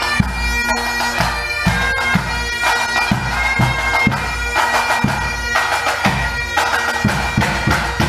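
Pipe band playing: bagpipes sounding a melody over their steady drones, with a drum beating a regular time underneath.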